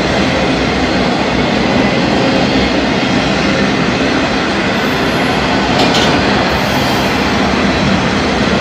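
Freight cars of a Norfolk Southern mixed freight train rolling past: a steady, loud noise of steel wheels on rail, with one brief high-pitched sound about six seconds in.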